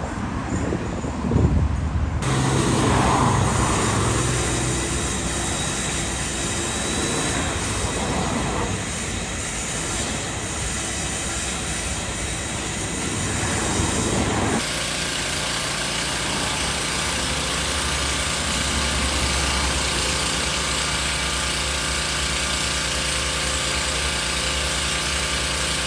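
Steady car engine and road noise, changing abruptly about two and fifteen seconds in.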